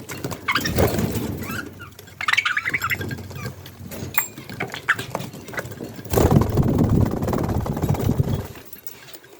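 Budgerigars chattering in short bursts of chirps, with a stretch of low rumbling noise late on.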